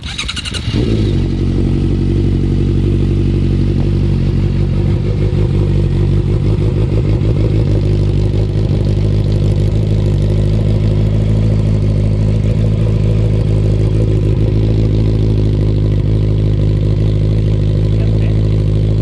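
Honda CBR650F's inline-four engine starting through an LCI carbon full aftermarket exhaust. It catches within the first second and then idles steadily with a deep, even exhaust note.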